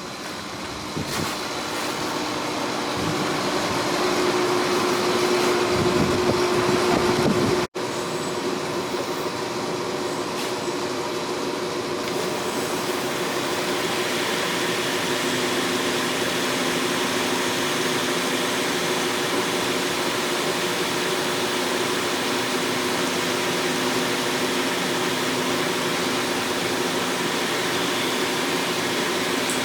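Steady running noise of metalworking shop machinery, growing louder over the first few seconds and breaking off for an instant before eight seconds in, then running on evenly.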